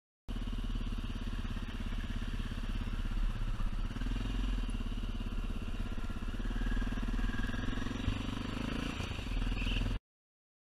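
Motorcycle engine running steadily, starting suddenly just after the start and cutting off abruptly near the end.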